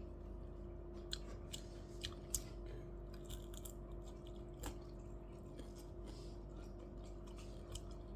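Chewing and eating sounds close to the microphone, with a few sharp small clicks, over a steady faint hum.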